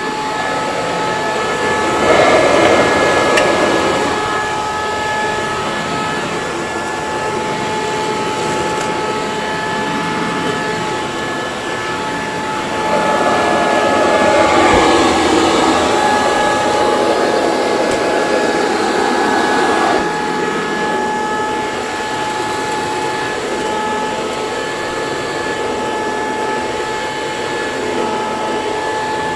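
Eureka C2094 commercial vacuum cleaner running, a steady motor whine over rushing airflow. It swells louder about two seconds in and again for several seconds past the middle.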